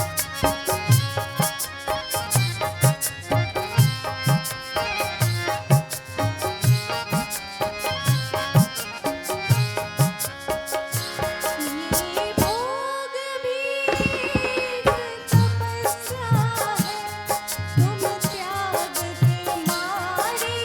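Harmonium with tabla and dholak playing the accompaniment to a Hindi film song, the drums keeping a steady beat. The drums drop out for about two seconds around two-thirds of the way through, and a gliding sung line comes in over the harmonium.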